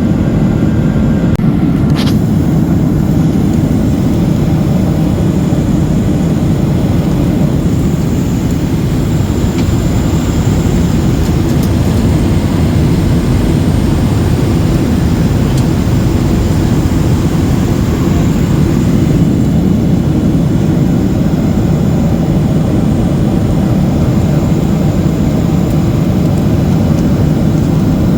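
Steady cabin noise of a Boeing 737-800 in flight: the even, deep rush of its CFM56 turbofans and the airflow past the fuselage. A single brief click sounds about two seconds in.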